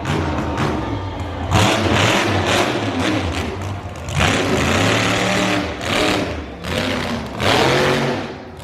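Motorsport engines revving hard and repeatedly, pitch climbing and dropping with loud full-throttle surges about one and a half, four and seven and a half seconds in.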